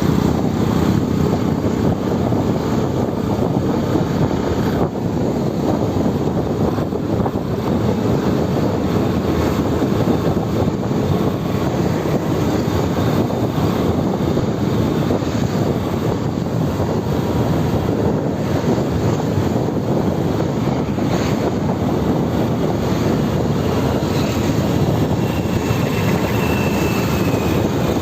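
Steady rush of wind buffeting the microphone over the running motorbike and traffic noise, heard while riding at speed.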